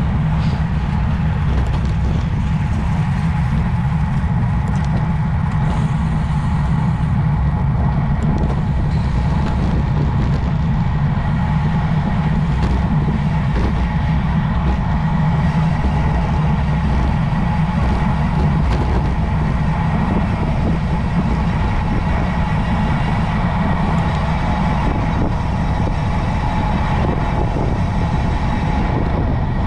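Steady wind rush and road rumble on a camera mounted on a moving road bike, heaviest in the low end, with a faint steady whine above it.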